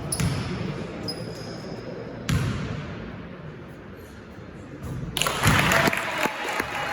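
Basketball game in an echoing gym: a ball bouncing on the court floor in a few separate thuds, with short high squeaks in the first second and a louder burst of mixed noise about five seconds in.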